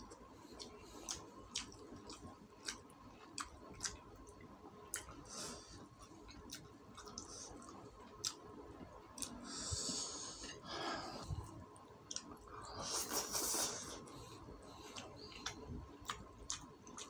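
A person eating chicken and rice by hand: wet chewing with frequent sharp mouth clicks and lip smacks, and two longer hissing sounds about ten and thirteen seconds in.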